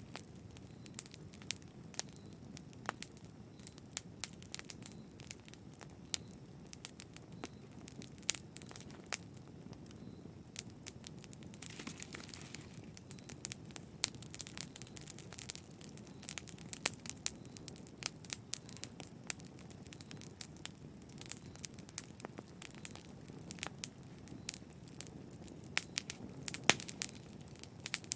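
Wood fire crackling in a fireplace: frequent sharp pops and snaps, some louder ones in the second half, over a steady low rush of the flames.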